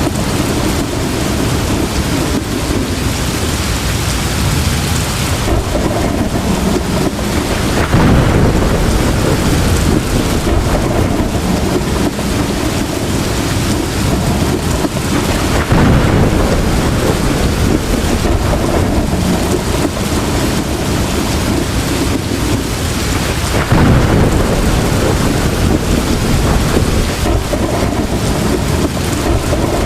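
Heavy rain falling steadily, with low rumbles of thunder swelling up three times, about eight seconds apart.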